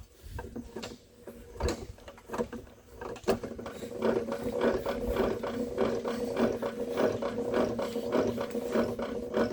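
Zocca 500 metal shaper's drive being turned over just after its play was taken up: the gears and slide mechanism click irregularly at first, then settle into a steady run of clicks over a hum from about four seconds in.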